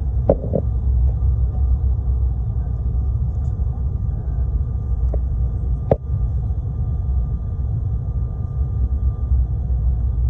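Steady low rumble of an airliner's engines heard inside the passenger cabin, with a faint steady hum over it. Short knocks come just after the start and again about six seconds in.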